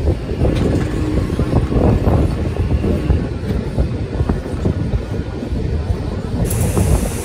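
Running noise of a MEMU electric multiple-unit train on the move: a dense, uneven rumble of wheels on the rails with irregular knocks and rattles.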